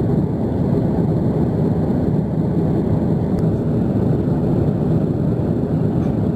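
Steady roar inside a jet airliner's cabin near the wing: engine and airflow noise, even and unbroken.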